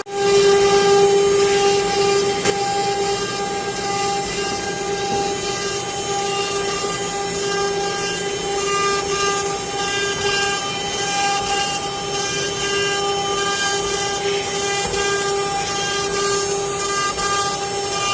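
CNC wood router running: the spindle gives a steady whine over the hiss of the cutting.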